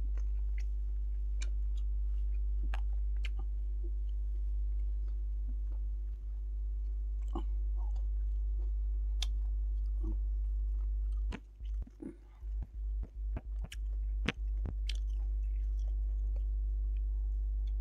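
A man chewing and biting mouthfuls of food close to the microphone, with scattered wet mouth clicks and smacks. Under it runs a steady low hum, the loudest thing, which cuts in and out several times a little past the middle.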